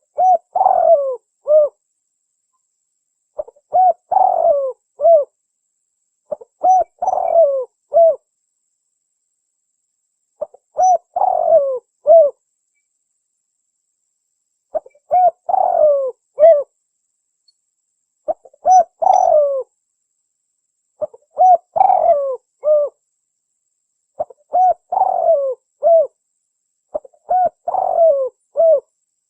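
Spotted dove (tekukur) cooing: nine repeated song phrases, each a quick run of several coos lasting under two seconds, coming about every three seconds. This is the wild bird's song as used for a lure call.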